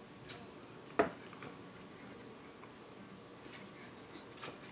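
A man chewing a mouthful of well-done steak, quiet mouth noises, with one sharp click about a second in.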